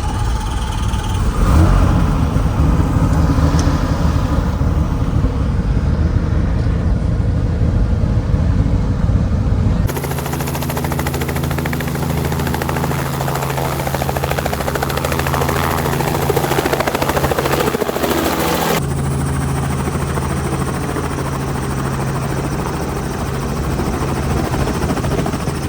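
Helicopter running in flight: a steady engine and rotor drone with a strong low hum. The sound changes abruptly about ten seconds in, to a steadier hum, and again a little before twenty seconds.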